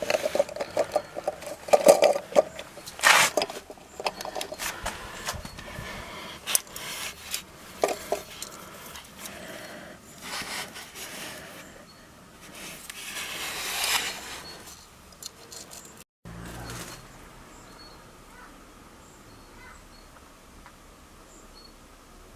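A series of knocks, clicks and scrapes from hands-on work, with a longer scraping or rustling sound about thirteen seconds in; after a sudden break, only faint steady background remains.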